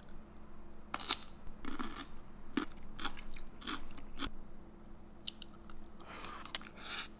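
A person chewing and biting food close to the microphone, with a string of irregular crunchy bites about a second apart.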